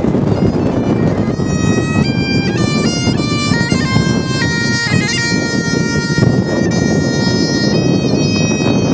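Bagpipes playing a melody, the notes stepping up and down, entering clearly about a second in. Heavy wind buffets the microphone with a loud, constant low rumble under the pipes.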